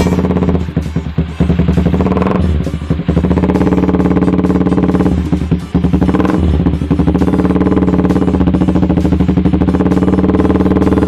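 Yamaha Vixion's single-cylinder four-stroke engine running through an aftermarket racing exhaust, idling with a few short throttle blips.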